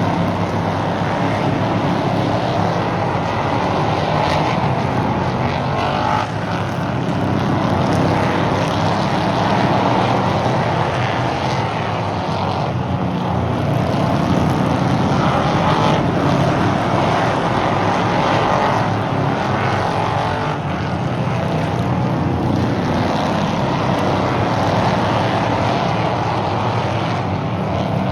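Stock-car engines running at racing speed around an oval track, a loud, steady, unbroken drone.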